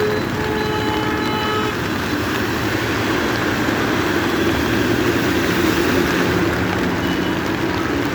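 Heavy rain and road traffic making a dense, steady wash of noise. A vehicle horn holds one steady note for about the first two seconds.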